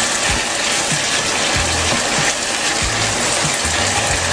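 Holy basil chicken stir fry sizzling in a hot nonstick pan while a wooden spoon stirs it, with soft low bumps of the spoon every second or so.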